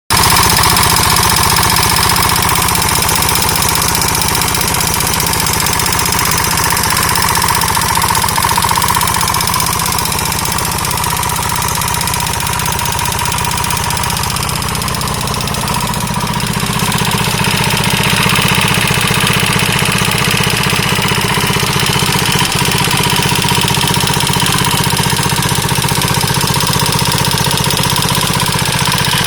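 KTM 640 LC4 single-cylinder four-stroke engine running with an abnormal mechanical knocking noise, a bad engine noise that the owner cannot place as top end or bottom end. A higher hiss joins in a little over halfway through.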